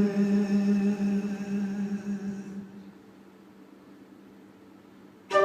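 Live band music: a single held low note with a steady pitch fades out over the first three seconds, followed by a quiet pause, then the music comes back in suddenly near the end.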